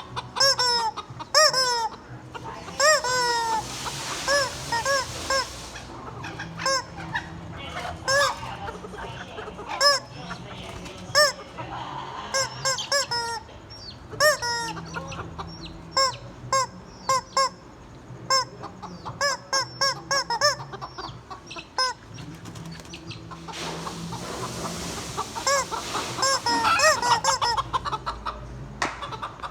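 Chickens clucking: a steady run of many short, arched calls. Two longer, harsher, noisier stretches come in, a few seconds in and again near the end.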